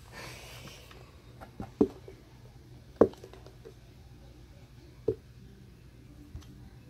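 Three dull knocks, about a second and two seconds apart, the middle one the loudest: a plastic glue bottle being banged against a table to get the last glue out.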